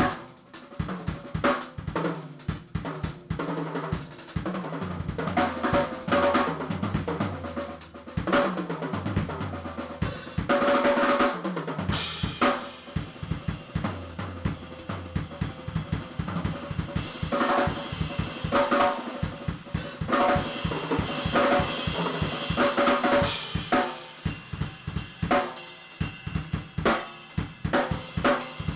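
Drum kit played fast and continuously: dense snare and tom fills over bass drum, hi-hat and cymbal crashes.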